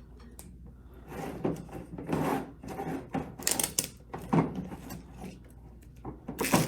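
Duct tape being worked onto a metal coffee can: irregular rubbing and rasping handling noises in several bursts, with the sharpest one near the end.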